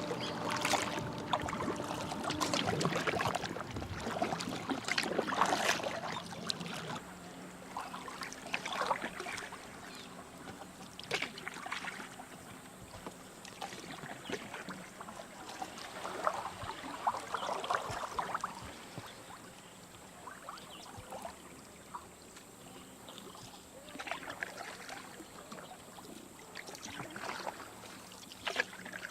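Kayak paddles dipping into calm water with irregular splashes, louder in the first several seconds, then softer.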